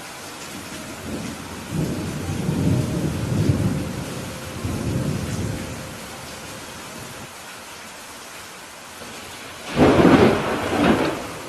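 Steady rain hissing, with a roll of thunder rumbling through the first half. A louder, sharper thunderclap comes near the end.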